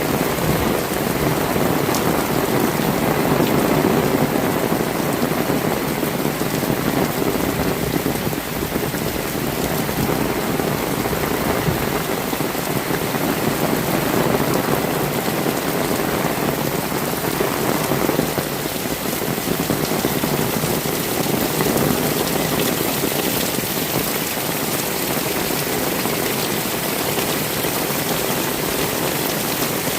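Heavy rain falling steadily: a dense, even hiss of rainfall.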